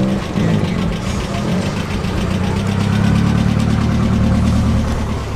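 A vehicle engine running at a fairly steady speed, swelling slightly in pitch and loudness about halfway through.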